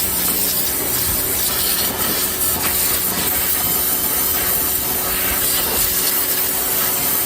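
Small Ryobi electric pressure washer spraying a steady hissing jet of water onto a greasy car engine bay, with the pump's steady hum beneath.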